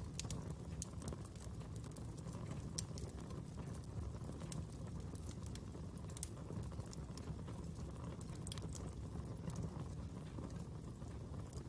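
Wood fire crackling, with sharp pops and snaps at irregular intervals over a low, steady rumble.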